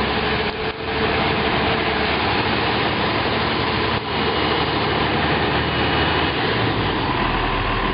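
Diesel engine of a 100,000 lb tracked machine running steadily.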